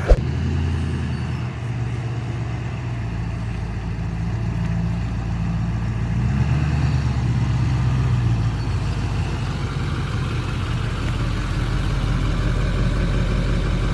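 A 2006 Chevy 3500 pickup's engine running as the truck drives, with the engine note shifting a few times. There is a sharp click right at the start.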